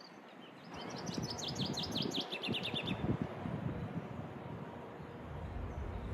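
A songbird singing a quick run of about a dozen short high notes, each sliding downward, lasting around two seconds, over a steady background of street ambience. A low rumble comes in near the end.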